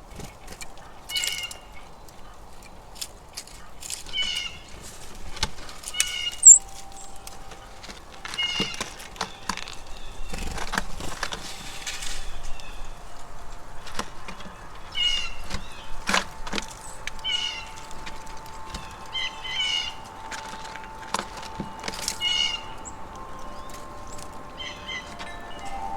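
Backyard birds calling over and over, short harsh calls every second or two, with a few sharp clicks between them. Wind chimes ring with held tones in the second half.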